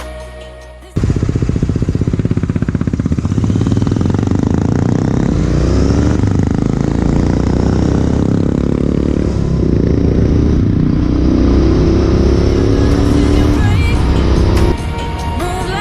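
Royal Enfield Interceptor 650's parallel-twin engine through a MotoWings aftermarket performance exhaust, running under way with the revs rising and falling as the throttle is worked. Music cuts out about a second in and comes back shortly before the end.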